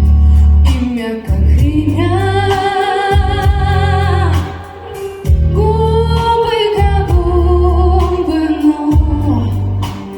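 A female voice singing a song, holding long notes with vibrato, over a musical accompaniment with a pulsing bass.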